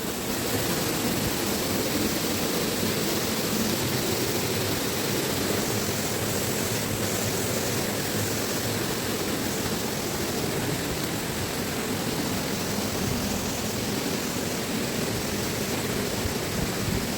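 Dry Falls waterfall pouring down, a steady, unbroken rush of falling water heard close up.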